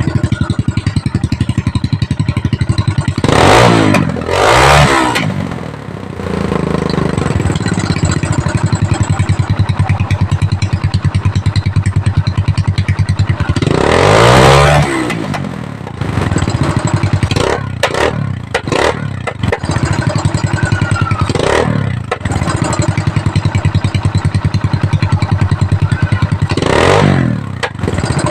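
Motorcycle running through a bullet-style exhaust pipe, idling with an even pulsing beat and revved briefly several times: twice in quick succession a few seconds in, once midway and once near the end.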